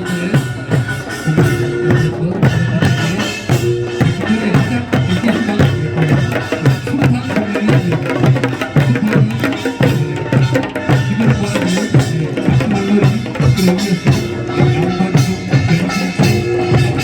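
Korean folk music with drums and other percussion beating out a steady rhythm under pitched instruments or voices.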